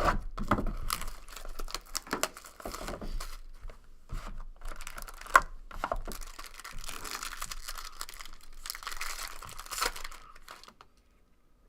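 A trading-card pack's wrapper being torn open and crinkled by hand, with irregular rustling and sharp crackles, one louder snap about halfway through. The rustling stops near the end.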